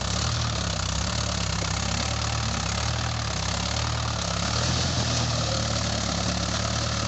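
Tractor engine running steadily at low speed, with no change in pitch or level.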